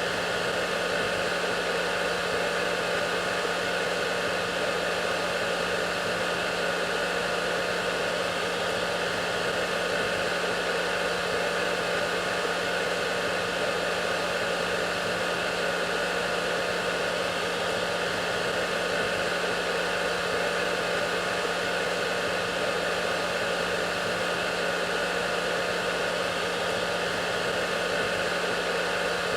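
Hair dryer running steadily: an even rushing of air with a constant motor hum underneath, unchanging throughout.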